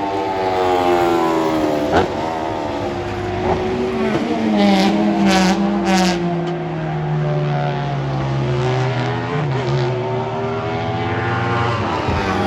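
Racing car engines at full throttle on the circuit. Pitch climbs and breaks at each upshift, then a car passes and its engine note falls away as it goes by, with a few sharp crackles partway through.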